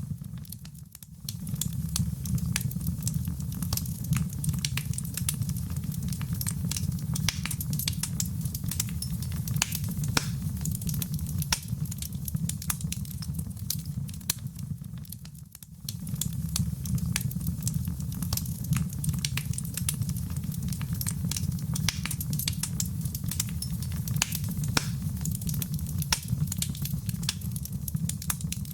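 Wood fire in a fireplace burning, with dense small crackles and pops over a steady low rumble. The sound dips briefly twice, about a second in and again midway, as the fire loop restarts.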